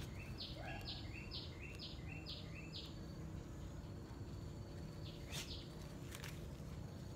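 A bird calling a quick series of six identical notes, each stepping up in pitch, over about two and a half seconds, against a steady low rumble of background noise. A couple of sharp clicks follow later.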